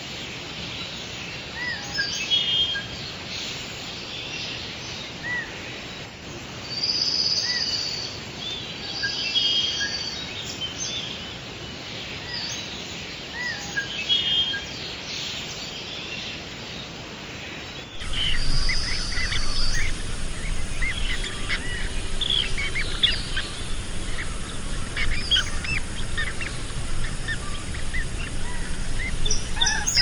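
Wild songbirds calling and chirping, short high calls repeating every second or two. About halfway through the sound changes abruptly to a louder, busier chorus of quick chirps over more background noise.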